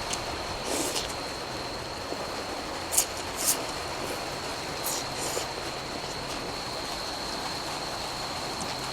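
Steady rain hiss with a thin constant high whine in the background, broken by a few brief sharp sounds about a second in, twice around three seconds in, and again near five seconds.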